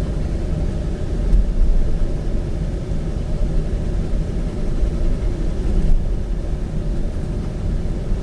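Steady low road and engine rumble heard inside a moving SUV's cabin.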